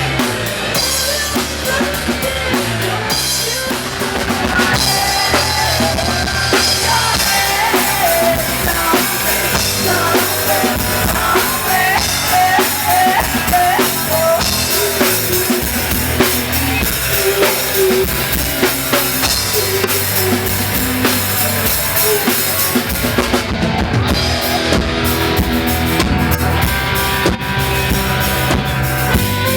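Rock band music with a full drum kit driving a steady beat on bass drum and snare, under a lead melody that bends up and down in pitch.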